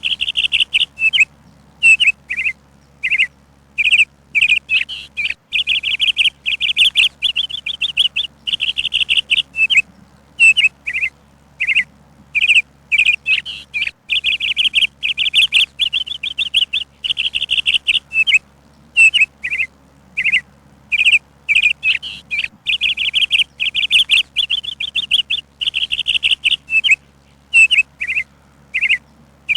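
Songbird chirping: bursts of high, rapid chirps and short trills, repeated one after another with brief pauses.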